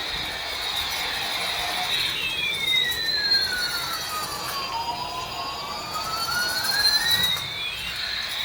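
Electronic toy sound effect: high, synthetic tones sweeping slowly in opposite directions. One falls from high to low and climbs back while the other rises and falls over about six seconds, siren-like.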